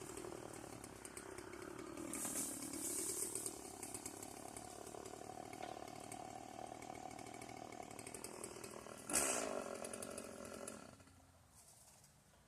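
Stihl two-stroke chainsaw engine running, its speed dipping and rising, then holding steady. There is a brief louder burst about nine seconds in, and the engine stops about eleven seconds in.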